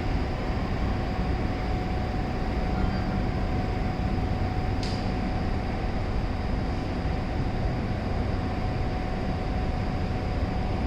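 Bombardier 5000-series CTA 'L' train running, a steady rumble with a constant mid-pitched tone over it, and one short click about five seconds in.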